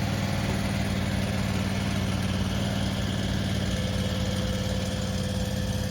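Skid steer engine running steadily at a low, even idle.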